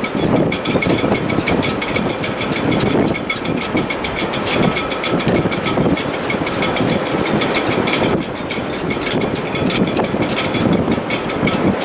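Wind blowing hard through a sailboat's rigging in heavy weather: a continuous loud rushing that swells and eases in gusts, with faint steady whistling tones from the shrouds and a fast, even ticking over it.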